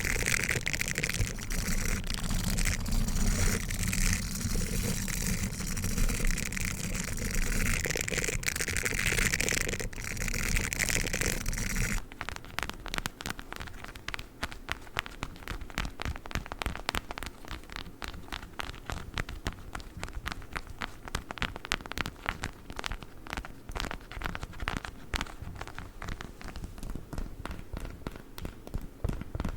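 Close-miked ASMR brushing and scratching with a dog toothbrush, a dense scratchy rustle. About twelve seconds in it cuts abruptly to a quieter stream of rapid, fine clicks and crackles from a witch-finger prop.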